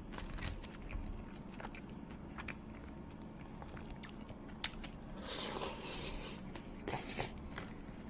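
Close-up eating sounds of a person biting and chewing food, with scattered sharp crisp clicks and a longer crunchy stretch about two-thirds of the way through.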